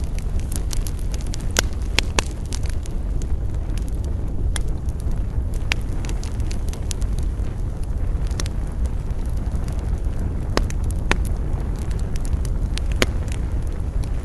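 Wood campfire crackling, with frequent sharp pops over a steady low rumble.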